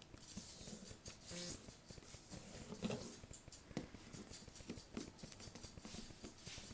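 Faint rustling and scraping of a sheet of paper being folded and creased by hand, with a few small clicks.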